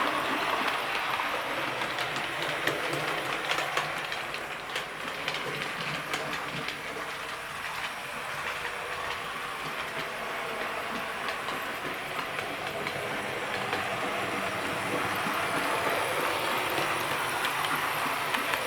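Model train running round the track: a steady whir from the locomotive's small electric motor, with the wheels clicking over the rail joints. It gets a little quieter in the middle and louder again near the end as the train comes back round.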